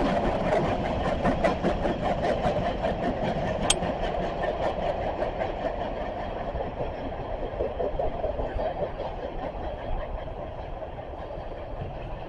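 CSX train's cars rolling past, their wheels clicking in a steady rhythm over the rail joints, with one sharper click about four seconds in. The clicks thin out and the rumble fades as the end of the train passes and moves away.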